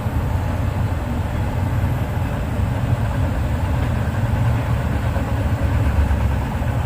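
Freight train rolling past: a steady, loud rumble of wheels and cars on the rails.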